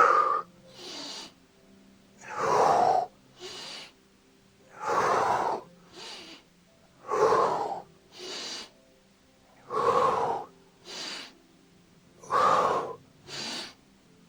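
A man breathing hard and rhythmically in time with exercise repetitions: six cycles, each a strong, audible breath followed by a shorter, quieter one, about every two and a half seconds.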